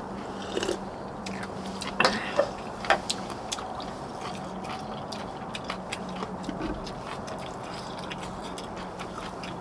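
Eating sounds of a meal of steamed monkfish: many small clicks of utensils on dishes and chewing, with a few sharper knocks about two and three seconds in, over a steady low hum.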